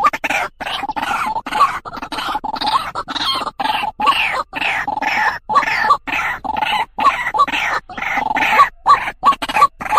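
White-breasted waterhen (truwok, ruak-ruak) calling: a continuous run of short repeated notes, about two or three a second.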